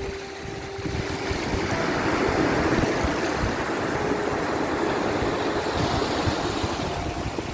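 Sea waves rushing and washing, swelling and easing, with wind buffeting the microphone and a few faint held notes of soft background music.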